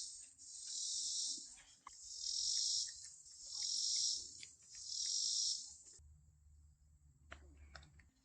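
Insects buzzing in a high, pulsing chorus, each buzz swelling and fading over about a second and repeating every second and a half; it stops about six seconds in, leaving a faint low rumble and a few small clicks.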